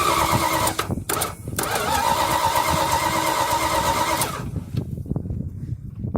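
Dodge's engine being cranked on the starter from cold: a whining crank that stops about a second in, a short pause, then a second crank of nearly three seconds. After that it drops to a quieter, uneven sound.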